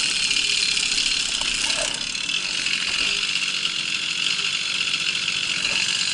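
Babetta moped's small 50 cc two-stroke engine running steadily under way, mixed with wind and ride noise.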